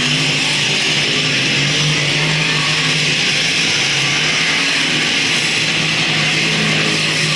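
Speedway race cars' engines running together in a loud, continuous drone.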